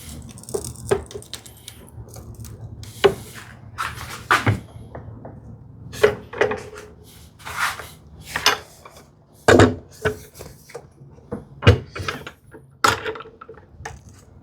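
Clamps being fitted and tightened on a glued-up wooden drawer box: irregular sharp knocks and clicks of clamp parts against wood, with short scraping sounds, about a dozen over the stretch.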